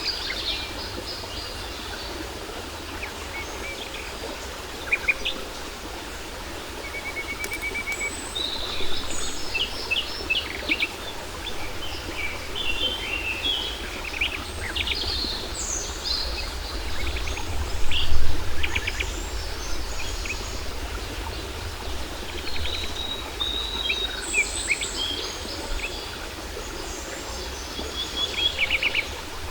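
Several birds chirping and trilling over the steady rush of a waterfall, with a low rumble that swells briefly about two-thirds of the way through.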